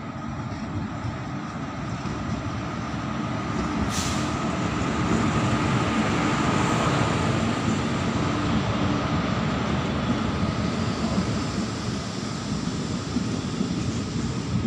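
Passenger train rolling past directly below: a rumble of the locomotive and wheels on rails that grows louder over the first five seconds and then holds steady as the coaches go by. A single sharp click comes about four seconds in.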